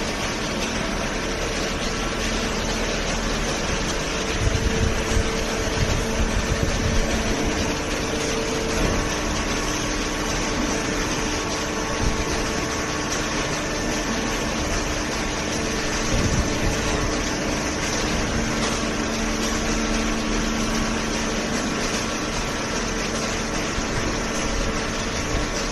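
Open-ended hydraulic cardboard baler running: a steady mechanical hum with a couple of held tones that shift pitch now and then, and a few low knocks about four to seven seconds in.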